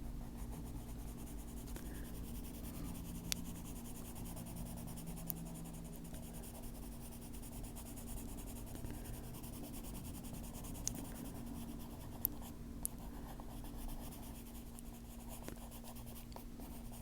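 Colored pencil shading on paper: a faint, steady scratching with a few light ticks, over a low, steady hum.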